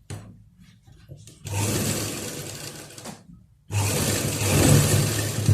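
Sewing machine stitching a shoulder seam in two runs, with a short stop between them about halfway through.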